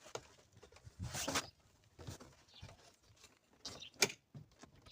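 Plastic interior door trim of a Volvo XC70 being handled and pulled loose: a few scattered scrapes and clicks, the sharpest about four seconds in.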